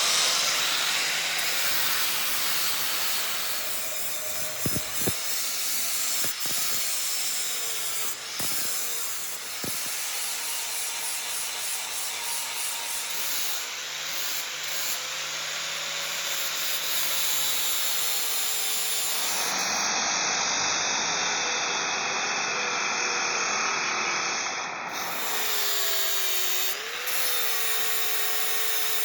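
Power tool grinding steel: a steady rasping noise with a faint motor tone that sags and recovers as the tool is loaded.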